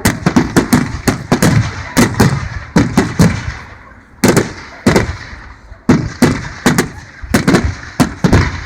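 Fireworks display: rapid volleys of sharp aerial shell bursts and crackles, each bang trailing off in an echo, with a short lull about four seconds in before the bangs pick up again.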